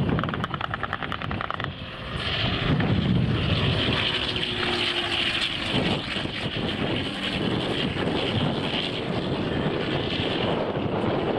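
Propeller aircraft engine running as a plane flies over, steady and loud, with a fast pulsing beat in the first two seconds.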